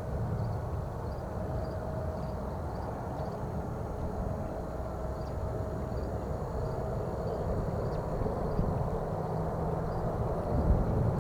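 Low, steady jet engine rumble of an airliner, growing louder near the end.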